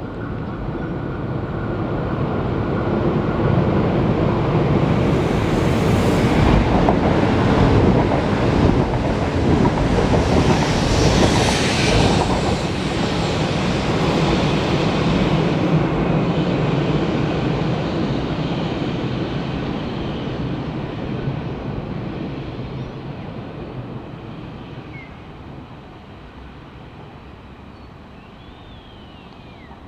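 Electric commuter train passing close by on the tracks: its rumble and rail noise build over several seconds, peak with a brief higher-pitched screech of the wheels a little before the middle, then fade away as it leaves.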